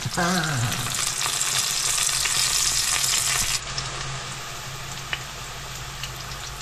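King bolete slices sizzling as they fry in oil in a pan, a steady hiss that drops abruptly to a softer sizzle about three and a half seconds in, with a few small pops after that.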